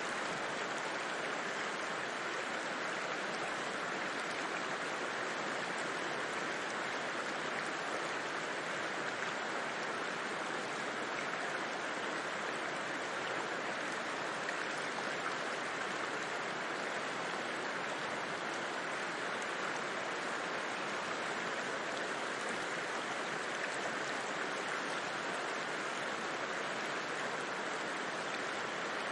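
River water flowing: a steady, unbroken rushing wash.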